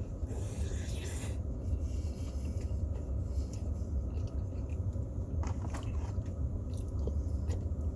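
Chewing and biting into a fried chicken and glazed-donut sandwich, with scattered short crunches and clicks, over a steady low rumble.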